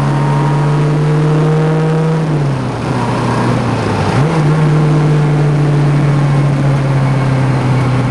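A 1974 BMW 2002tii's fuel-injected four-cylinder engine pulls under load while driving. The engine note eases off about two and a half seconds in, then climbs back sharply about four seconds in and holds steady.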